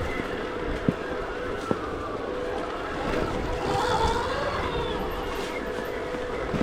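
Stark Varg electric dirt bike riding off-road: a steady electric motor whine over wind and tyre noise, with two sharp knocks about one and two seconds in. Near the middle, a higher whine rises and falls briefly as the throttle changes.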